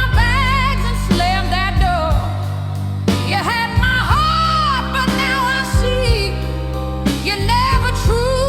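Slow blues song: a solo voice singing phrases with a wavering vibrato over steady bass and band accompaniment.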